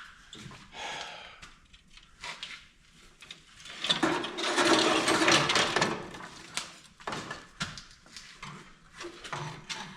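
Hands and tools working on a tractor engine: scattered clicks and knocks of parts being unhooked and handled, with a louder stretch of scraping, rattling noise lasting about two seconds midway.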